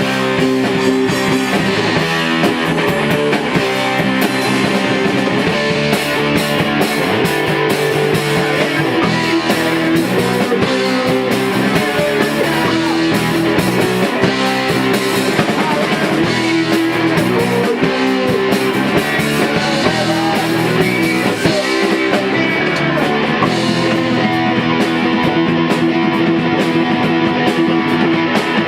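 Rock band playing at rehearsal: guitars over a drum kit, loud and continuous, in a punk-rock style.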